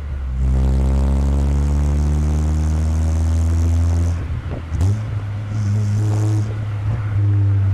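Exhaust note of a 1997 Chevrolet Corsa Wind 1.0 MPFI four-cylinder with a JK aftermarket muffler, picked up right at the tailpipe while driving. The engine pulls with its pitch slowly rising, then breaks off and drops to a lower note a little past the middle, as at a gear change, with another brief break near the end.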